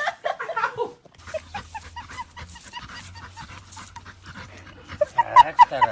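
A dog panting quickly, then giving a few short, high-pitched whines near the end.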